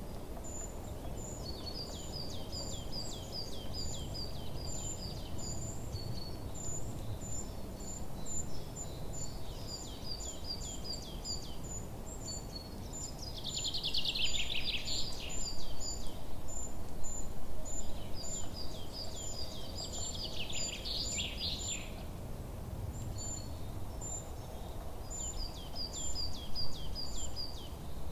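Birds chirping: rows of short high chirps and quick falling whistles repeating over a steady low background hiss, with two louder, busier trills about halfway through.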